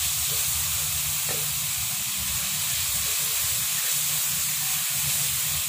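Pounded garlic and candlenut paste sizzling steadily in hot oil in a wok, with a few light scrapes of a spatula stirring it and a low steady rumble underneath. The paste is being fried down until it is dry and fragrant.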